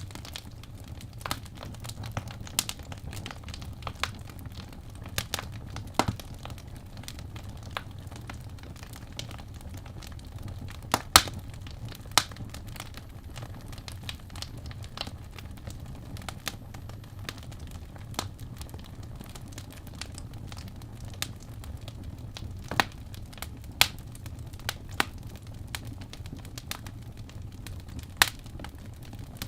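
Fireplace fire crackling: irregular sharp pops and snaps over a low steady rumble, with a couple of louder pops near the middle.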